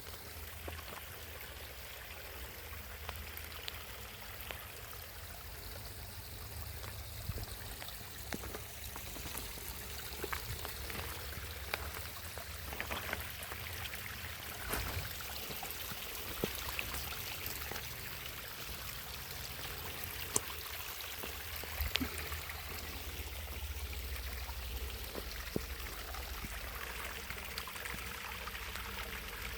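Water trickling and running steadily, with scattered small ticks through it.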